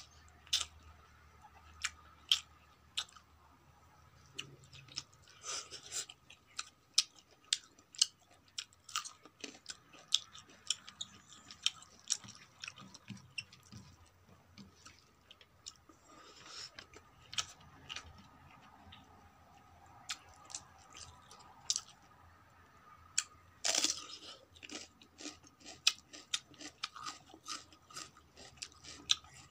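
Close-miked chewing of a mouthful of rice and leafy greens, with many sharp wet mouth clicks and a louder crunch about three-quarters of the way through. Fingers mix rice on a steel plate.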